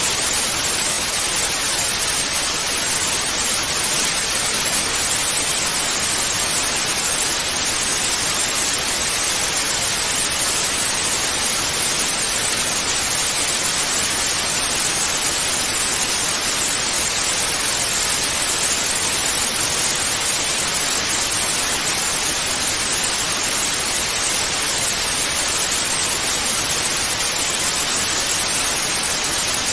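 Television static (white noise): a steady, unbroken hiss, strongest in the high frequencies.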